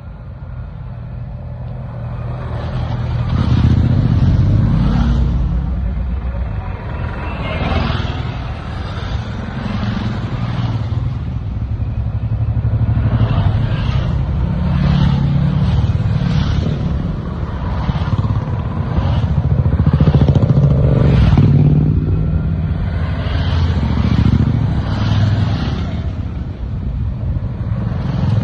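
Several motorcycle engines running together, the sound swelling and falling repeatedly as bikes rev and pass one after another.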